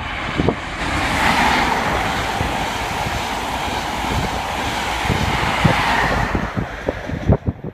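East Midlands Trains High Speed Train (InterCity 125) passing at speed: a steady rush of wheel and air noise that swells within the first second, holds, and dies away about six seconds in. Gusts of wind buffet the microphone near the end.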